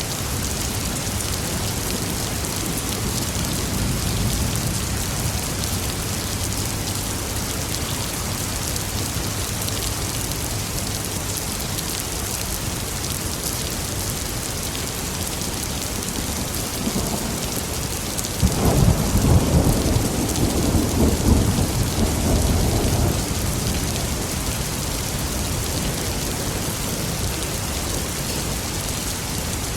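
Steady rain with thunder. A soft roll of thunder comes a few seconds in; about two-thirds of the way through a loud thunderclap breaks suddenly and rumbles for about five seconds before it sinks back under the rain.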